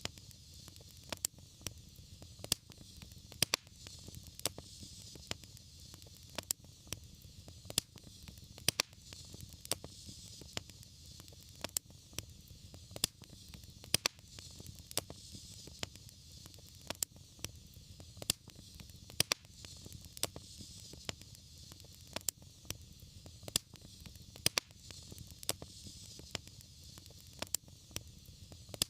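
Wood fire burning in a fireplace: a steady low rumble and hiss with frequent sharp, irregular crackles and pops.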